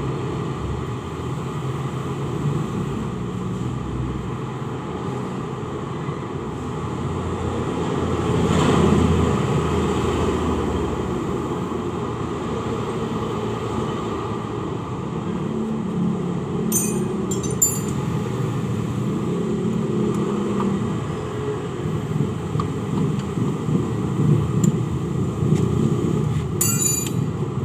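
A steady low rumble that swells about nine seconds in, with a few short, sharp metallic clinks of tools on engine parts in the second half.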